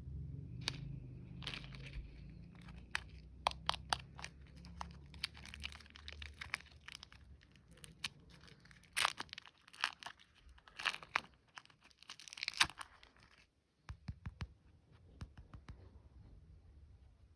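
Plastic candy wrappers being torn open and crinkled by hand: irregular sharp crackles and rustles, loudest in a cluster in the second half, then dropping to softer clicks near the end.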